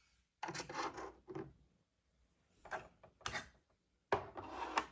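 Toy playset pieces being handled and moved about, giving a few short rubbing and scraping noises with gaps of silence between them.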